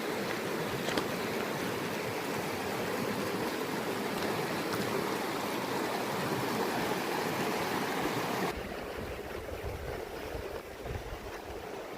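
Mountain stream rushing steadily. About eight and a half seconds in, the sound changes abruptly: the water noise drops and becomes thinner, and an uneven low rumble comes in underneath.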